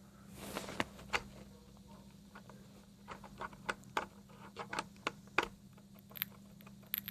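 Power cable being wiggled in the socket of an Xbox One power brick: irregular sharp clicks and crackles as the plug makes and breaks contact, thickest in the second half. The crackling is like short-circuiting; it is a makeshift fix for the brick's orange-light fault.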